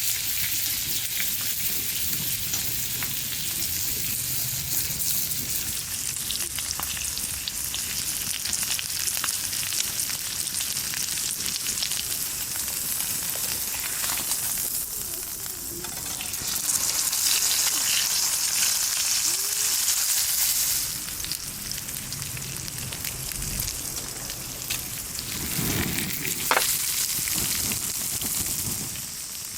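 Steak frying in a pan over a campfire: a steady sizzle that grows louder for a few seconds past the middle.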